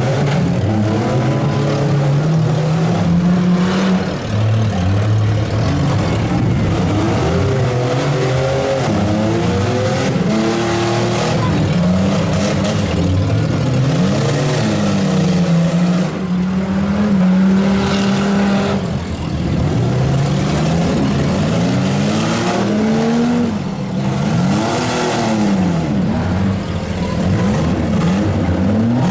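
Several demolition-derby vans, trucks and SUVs revving their engines hard, pitches rising and falling over one another as they drive. A few dull knocks of cars hitting each other come through.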